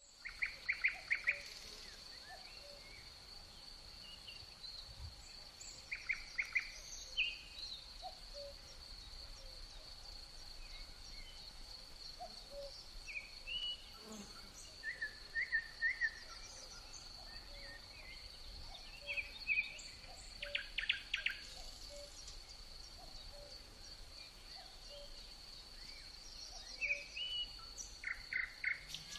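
Birds chirping and trilling in short scattered calls over a steady high-pitched tone.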